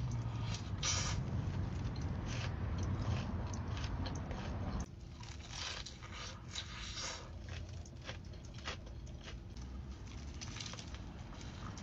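Close-miked eating: crunchy bites and chewing, one short crackle after another. About five seconds in the level drops suddenly and the bites go on quieter.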